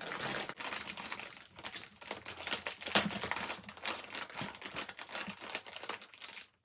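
Crinkling of snack chip bags being handled and sorted, an irregular run of crackles with one sharper crackle about three seconds in.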